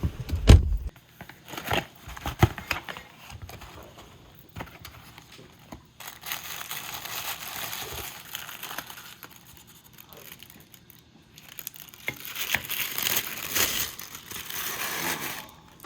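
Wrapping or a bag being handled, crinkling and rustling in two long stretches, with a few sharp clicks and taps near the start.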